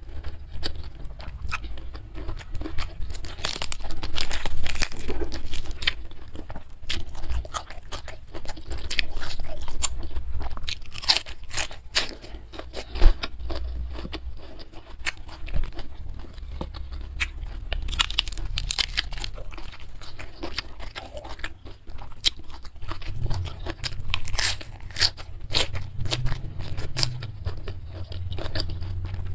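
A person chewing with frequent crisp crunches, close to the microphone, eating a meal of spicy beef with petai beans, young jengkol and raw leafy greens.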